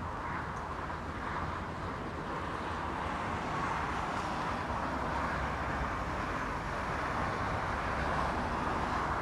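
Strong wind blowing steadily, a rushing noise with low rumbling buffets.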